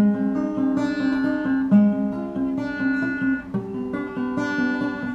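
Acoustic guitar strummed and picked alone, with no voice, its chords changing about every one and a half to two seconds.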